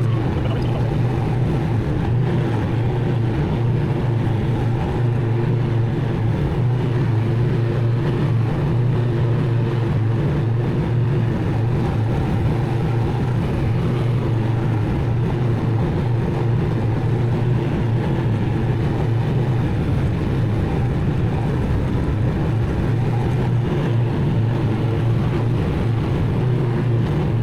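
Zero-turn mower's engine running steadily at mowing speed, with a constant low hum that does not change through the whole stretch.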